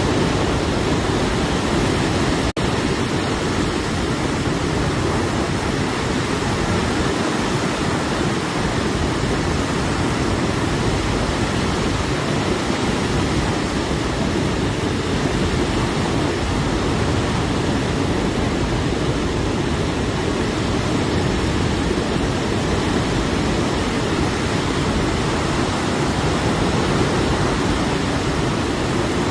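Steady, unbroken rush of flowing water, like a waterfall or fast stream, with a momentary dropout about two and a half seconds in.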